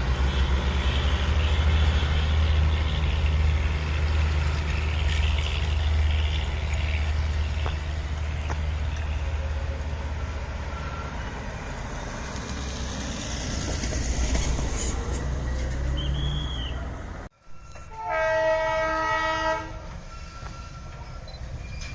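Train running with a steady low rumble; after a brief break, a train horn sounds one blast of about a second and a half, and the rumble goes on more quietly.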